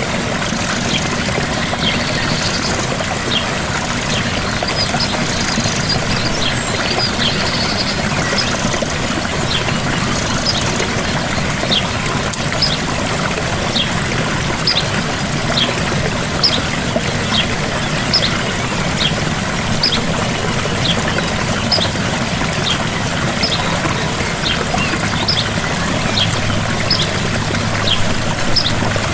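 Gentle waterfall: a steady rush and splash of falling water. A bird calls over it with short high chirps, about one a second from about ten seconds in.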